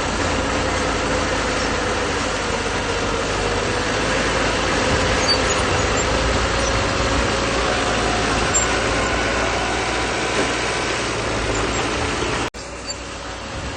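Crawler bulldozer's diesel engine running steadily while working. Near the end the sound cuts out for an instant and comes back quieter.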